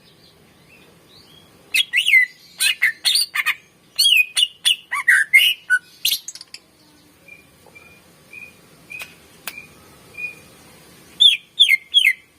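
Cucak ijo (green leafbird) singing. A rapid run of loud, sharp, sweeping whistled notes comes about two seconds in, then a string of softer short notes on one pitch, and three loud sweeping notes near the end.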